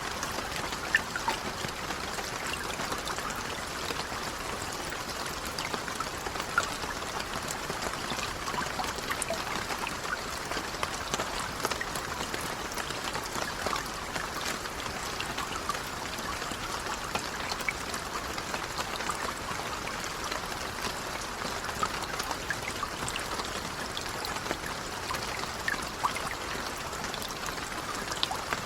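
Light rain falling steadily, a continuous patter with many small scattered drop ticks.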